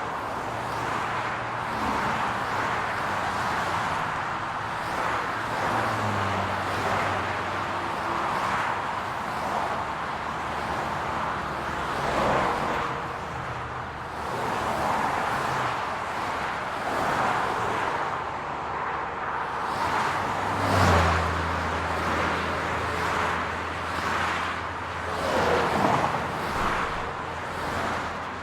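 City street traffic: a steady wash of road noise with cars passing one after another, a few passes swelling louder, the loudest about 21 seconds in. A low engine hum sits underneath, growing stronger from about 21 seconds in.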